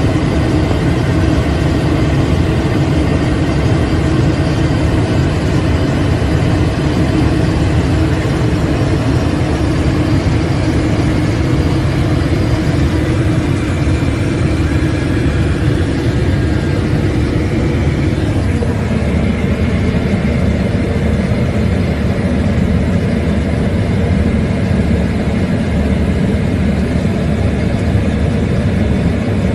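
Aircraft engine running steadily, its sound changing about eighteen seconds in.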